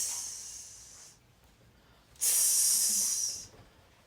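Singer's voiced "tss" hisses, vocal percussion imitating a steam train's hiss: one at the start that fades over about a second, and a second, held steady for about a second, about two seconds in.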